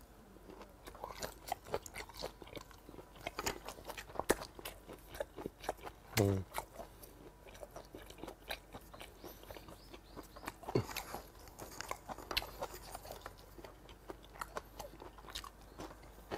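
Close-miked chewing of grilled hagfish: wet mouth smacks and clicks throughout, with a short low hum of the voice about six seconds in.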